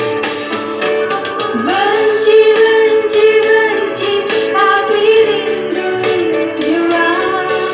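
A woman singing a song over musical accompaniment, holding long notes with small bends in pitch.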